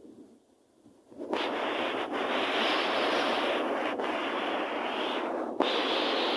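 Loud, steady rushing noise of sea surf and wind, starting suddenly about a second in, with a few brief dips.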